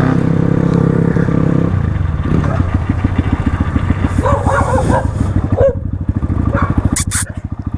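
Crossfire RM250 dirt bike's single-cylinder engine running, its revs dropping a couple of seconds in to a slower, even putter. A dog barks a few times midway, and there is a sharp double click near the end.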